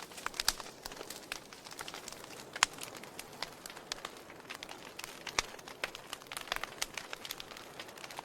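Wood logs burning in a fireplace, crackling with irregular sharp pops over a faint steady hiss, one louder snap a few seconds in.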